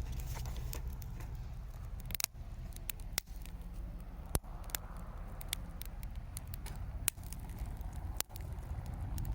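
Hardwood campfire crackling, with sharp irregular pops about once or twice a second over a steady low rumble.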